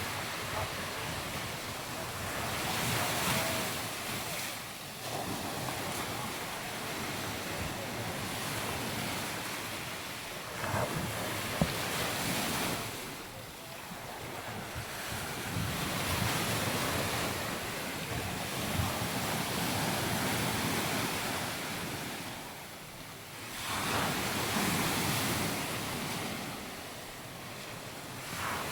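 Surf breaking on a beach, the wash of the waves swelling and fading every few seconds, with wind buffeting the microphone.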